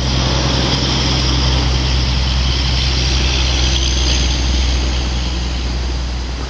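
A motor vehicle's engine running steadily with a low hum, under a broad rushing noise that fades slightly near the end.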